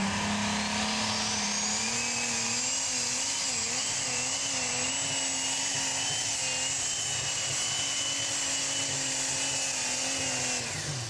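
Super stock pulling tractor's turbocharged diesel engine at full power on a pull, its pitch wavering under load, with a high turbocharger whine that climbs over the first two seconds and then holds. About ten and a half seconds in, the tractor is shut down early and the engine and whine drop away.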